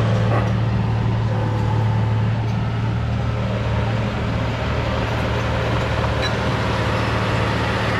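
Heavy diesel engine of a bulldozer running steadily, with a constant low hum.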